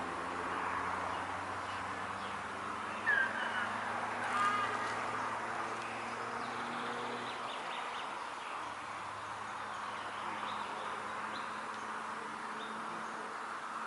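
Pondside summer ambience: a steady rush of wind, with two short bird calls, a falling chirp about three seconds in and a brief harsher call a second later. Under it runs a low, steady engine-like hum that fades out about halfway through.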